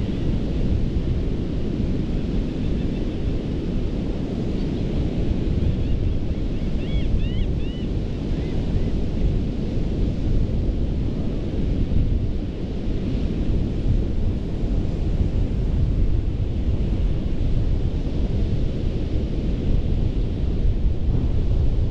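Surf breaking and washing on a sandy Gulf beach, with wind buffeting the microphone. A few short bird chirps about seven seconds in.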